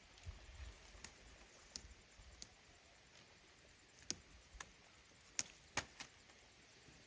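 Faint, scattered small clicks and snaps, about six of them at uneven intervals, over a low background rumble.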